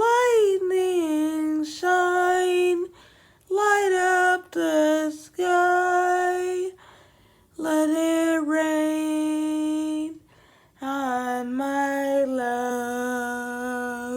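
A solo voice singing unaccompanied, holding long notes in about half a dozen phrases with short quiet breaks between them.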